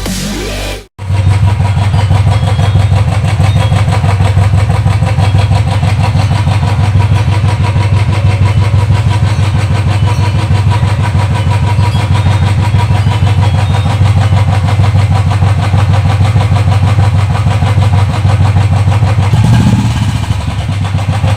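Royal Enfield motorcycle engine idling steadily with a loud tappet tick-tick: the engine's mechanical noise comes through louder than the exhaust. It starts about a second in, straight after a short burst of electronic music is cut off.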